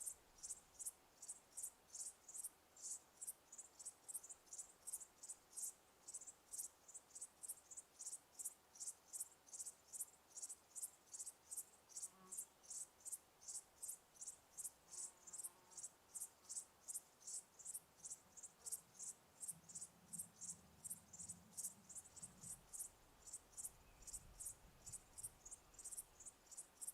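Cricket chirping steadily, short high-pitched chirps at about two and a half a second, with a faint low rumble for a couple of seconds past the middle.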